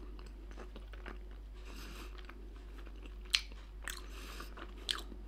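A person chewing grilled pork side slices close to the microphone, with a few sharp wet clicks of the mouth about three and a half and five seconds in.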